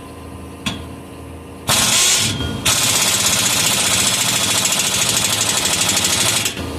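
Impact wrench hammering exhaust clamp nuts tight: a short burst about two seconds in, then a longer run of about four seconds with a fast, even rattle.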